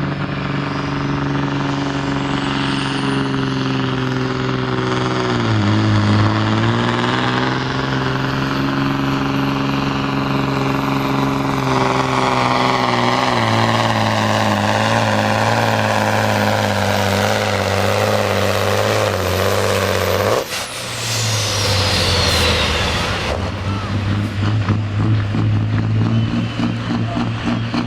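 Diesel engine of a pulling truck running hard under load with a high whistle. About twenty seconds in it is suddenly let off. A loud burst of air hiss and a falling whine follow for a few seconds, then the engine runs on steadily.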